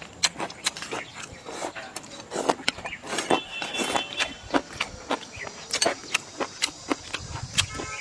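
Eating at a table: chopsticks clicking and knocking against bowls, with chewing, in irregular quick taps.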